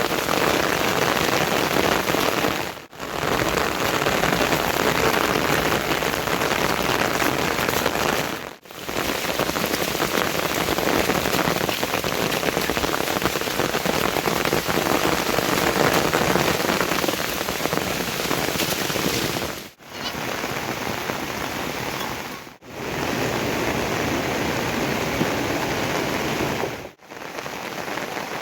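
Heavy monsoon rain falling in a steady, dense hiss. The sound briefly cuts out five times.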